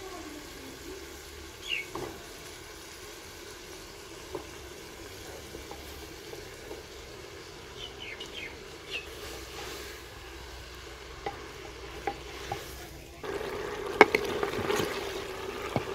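Potatoes and cauliflower frying in masala in a clay pot, a steady sizzle, as chopped potatoes are added. About 13 seconds in it gets louder: a wooden spoon stirring the vegetables and knocking against the clay pot.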